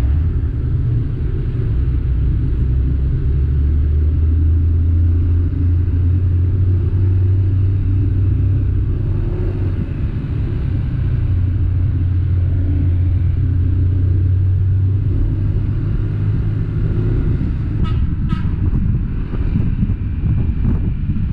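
Vehicle engine running steadily on the move, a deep low rumble, with a few short clicks or rattles near the end.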